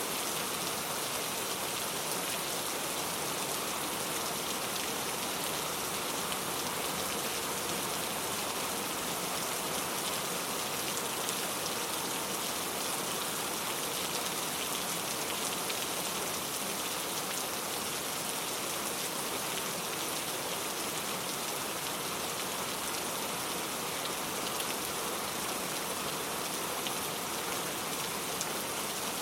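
Steady rainfall, an even hiss of drops falling on a surface with faint scattered drop ticks and no thunder.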